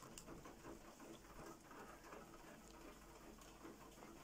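Near silence, with faint steady rain pattering through an open window.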